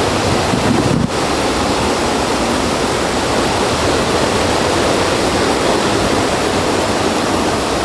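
Steady rush of flowing water, a mountain stream or waterfall close by.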